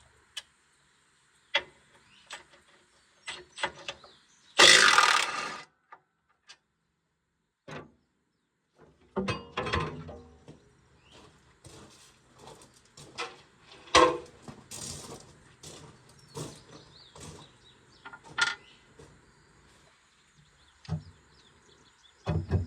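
Hand tools clicking, knocking and clattering on metal while a John Deere 260 skid steer is taken apart, with a loud rush of noise lasting about a second near five seconds in.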